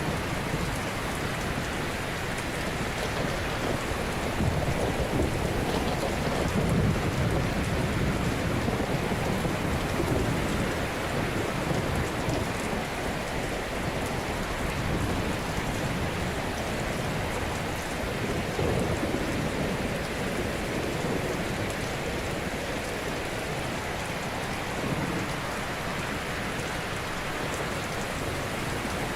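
Ocean waves crashing gently: a continuous wash of surf that swells every several seconds as waves break.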